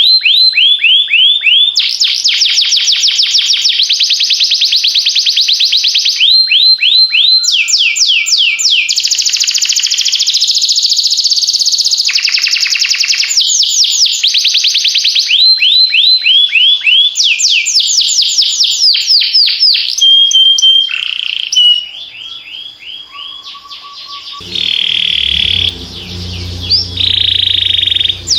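Domestic canary singing: fast trills of rapidly repeated notes, switching to a new trill every second or two, with a few held whistles. Near the end a low background sound joins in under the song.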